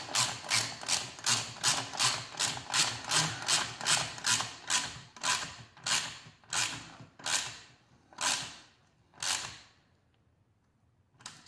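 Hand ratchet wrench tightening an exhaust clamp bolt: a run of ratcheting strokes at about three a second that slow down and stop as the bolt snugs tight, with one last short click near the end.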